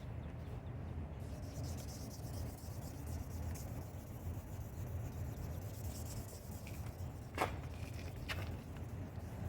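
2000-grit sandpaper rubbing over a plastic headlight lens in steady, scratchy strokes, with a sharp click about seven seconds in.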